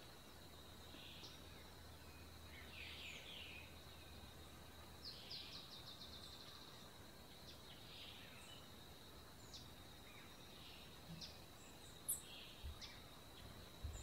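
Faint wild songbird calls: scattered thin high chirps and a quick trill of rapid notes about five seconds in, over a steady thin high tone. A couple of sharp clicks near the end.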